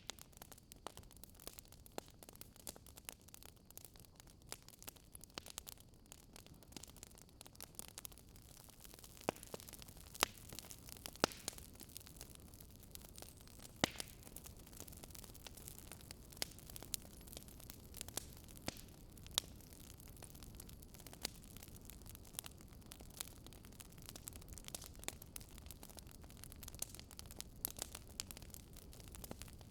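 Wood fire burning in a fireplace, crackling with many sharp, irregular pops over a faint steady hiss.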